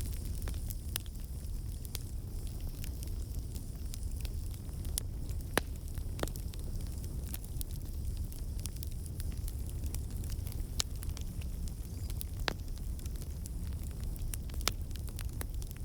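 Campfire burning, with a steady low rumble of flame and irregular wood crackles and pops, a few of them sharp and louder.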